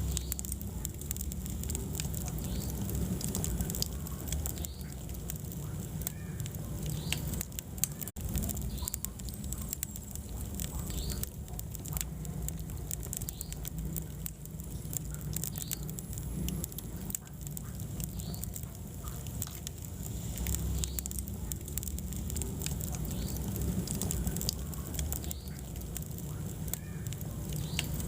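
Wood fire burning in a fireplace: crackling with frequent irregular sharp pops and snaps over a low steady rumble of the flames.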